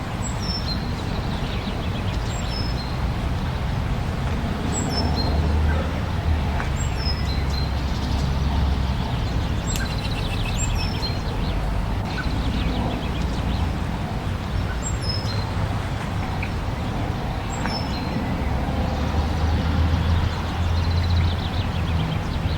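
Small birds chirping, many short high notes that fall quickly in pitch and repeat every second or so, over a steady low rumble.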